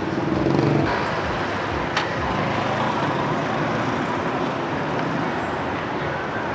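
Street traffic: motor vehicles running and passing in a steady wash, louder for a moment in the first second, with a single sharp click about two seconds in.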